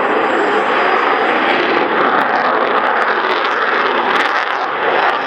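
Eurofighter Typhoon's two Eurojet EJ200 engines at high thrust, a loud, steady jet noise, with a few sharp crackles about four seconds in.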